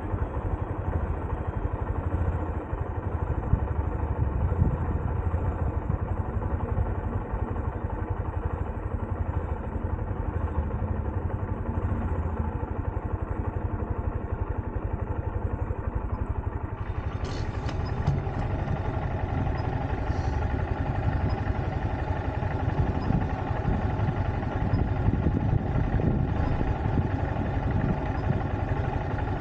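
Honda CB125F's single-cylinder four-stroke engine running steadily at low city speeds, heard from on the bike, with a few light clicks about two-thirds of the way through.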